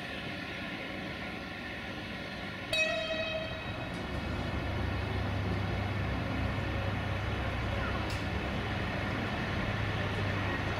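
Siemens Desiro VT642 diesel multiple unit giving one short horn blast about three seconds in, then its diesel engine running louder as the train creeps slowly along the platform.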